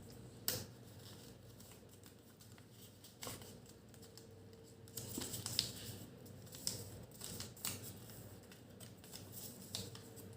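Sheet of origami paper being folded and creased by hand: faint rustling with crisp taps, a sharp one about half a second in and another around three seconds, then a busier run of rustles and taps in the second half.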